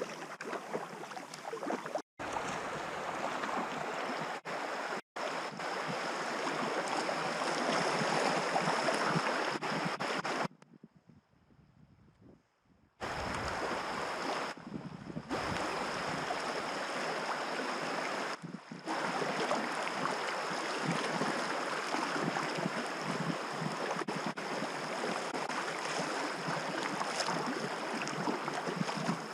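River water rushing and splashing steadily around a packraft drifting downstream, with wind on the microphone. The sound drops out briefly a few times and goes almost silent for about two seconds near the middle.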